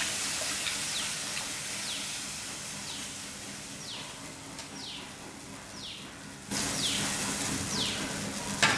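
A bird calling repeatedly, short downward-sliding chirps about once a second, over a faint steady hiss that gets louder about two-thirds of the way through.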